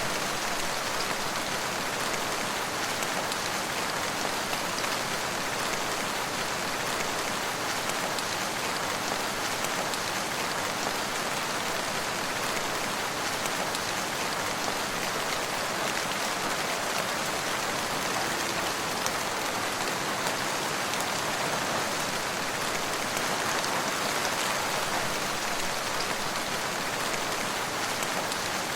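Steady rain falling, an even hiss of many drops with fine pattering and no change in strength.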